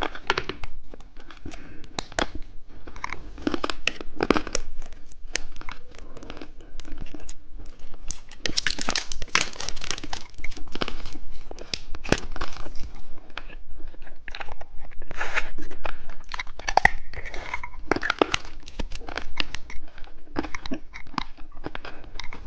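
Plastic candy wrappers crinkling and tearing open, mixed with candy being crunched and chewed close to the microphone, in irregular bursts that are busiest about a third of the way in and again past the middle.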